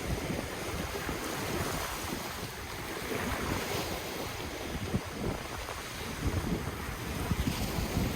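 Ocean waves washing on the shore in a steady rush of surf, with wind buffeting the microphone in low, irregular rumbles.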